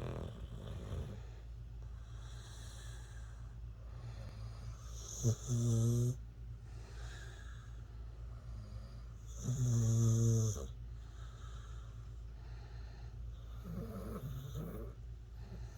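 A sleeping dog snoring: two loud snores about four seconds apart, each lasting about a second, with softer snoring breaths between them.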